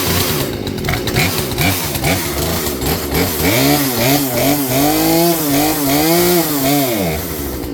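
Poulan P3416 34cc two-stroke chainsaw running, its engine speed uneven at first and then rising and falling over and over, about twice a second, for the last few seconds. It is running on a new out-of-the-box Hipa carburetor that, judged by this running, needs adjustment.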